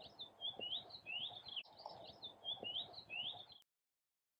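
Faint outdoor birdsong: small birds chirping and twittering in quick rising and falling notes, the same few phrases coming round twice, then cutting off suddenly about three and a half seconds in.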